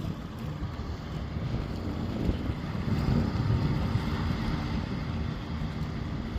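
Wind buffeting the microphone, a low uneven rumble, over open harbour ambience.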